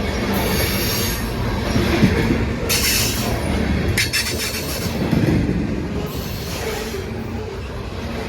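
Coal train's cars rolling past with a steady low rumble of wheels on rail. Bursts of high-pitched wheel squeal come and go several times.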